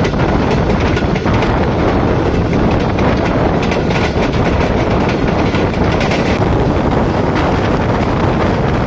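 Express passenger train running at about 75 km/h, heard from aboard a coach: a steady, loud rumble of the wheels on the rails.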